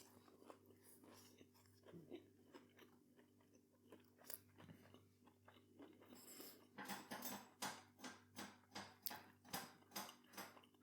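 A person chewing a bite of a soft bread roll filled with fishless fingers, lettuce and mayonnaise. The chewing is faint at first, then from about seven seconds in it becomes a regular run of chews, about three a second.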